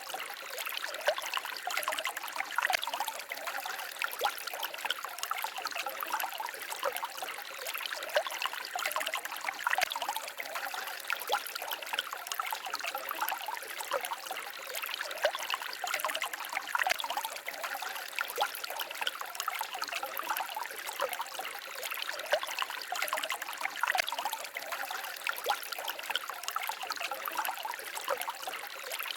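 Small forest stream babbling and trickling over stones, a steady splashing with many small quick gurgles.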